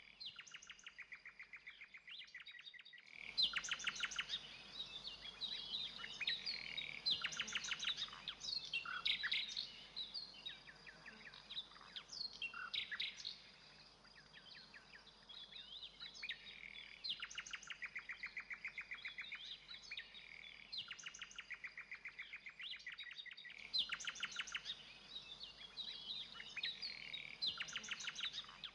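Songbirds singing: varied phrases of rapidly repeated notes and trills, one after another, over a faint steady high tone.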